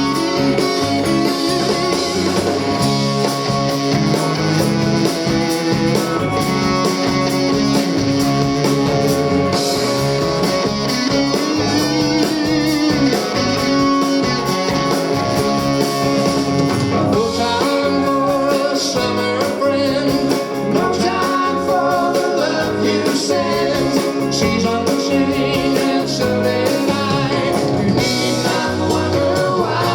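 Live rock band playing an instrumental stretch with electric guitar prominent, with sustained and bending notes.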